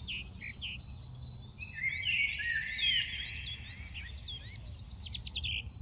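Several small birds chirping and singing together: repeated short chirps, quick high trills and rising whistled notes, busiest about two to three seconds in, over a steady low background rumble.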